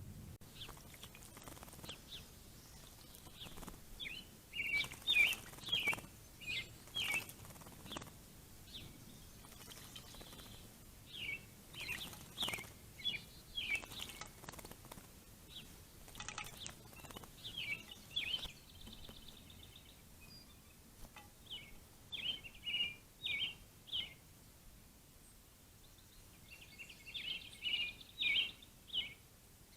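A songbird singing in clusters of short, varied chirping notes with pauses between them; the fullest runs come a few seconds in and near the end.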